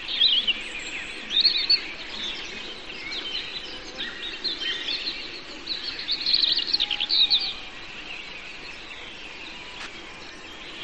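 Small birds chirping and singing over a steady outdoor hiss; the calls come thickest a little past the middle and fall away for the last few seconds.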